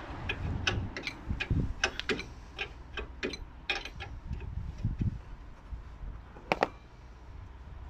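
Hand tools clicking: a run of sharp clicks, several a second, for about four seconds, then a louder double click near the end.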